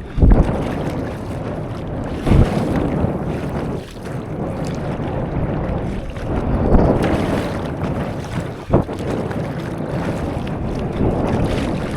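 Wind rumbling on the microphone over the wash of sea water around a stand-up paddleboard, with a few sudden low thumps.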